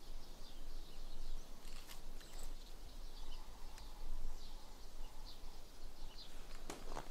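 Small birds chirping, with many short high calls scattered through, over a steady outdoor background noise. A few sharp clicks about two seconds in and a cluster of them near the end.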